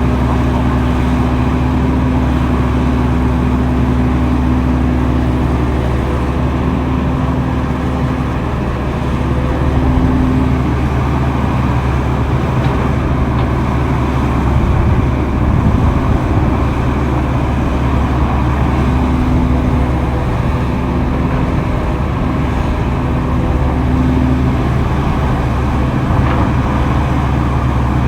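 Heavy earthmoving machine's engine running steadily under load. A higher steady tone comes and goes a few times over it.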